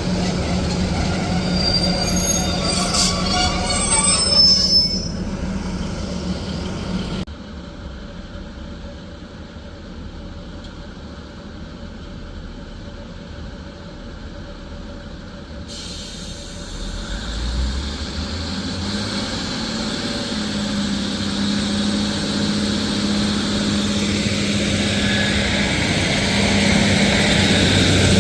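A train running past with its wheels squealing in high tones over a steady hum. The sound drops away abruptly about a quarter of the way through. In the second half another train approaches, its hum growing steadily louder.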